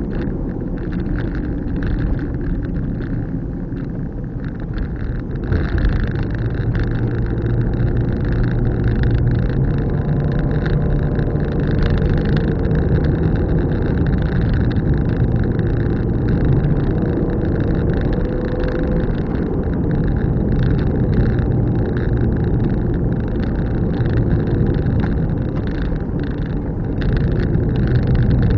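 A car being driven, with a steady run of engine and road noise that gets a little louder about six seconds in.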